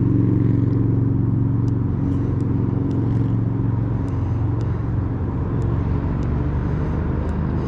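A vehicle engine running with a steady low hum that eases off slightly, with a few faint light ticks.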